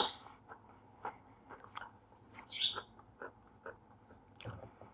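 Slate pencil being bitten and chewed: irregular sharp, dry crunches, several to a second. Behind them, a faint high chirp repeats several times a second.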